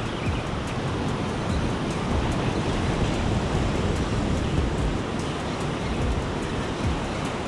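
Ocean surf washing up the beach, with wind rumbling on the microphone.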